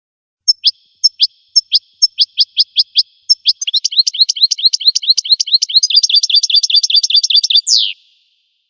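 A songbird sings one long phrase. It opens about half a second in with single falling notes, roughly two or three a second, speeds up from about three and a half seconds into a fast, even trill, and ends near the end with one quick downward sweep.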